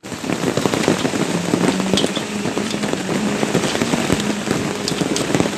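Heavy shower of rain and hail beating down on hard surfaces: a dense, steady patter with many sharp ticks of hailstones striking.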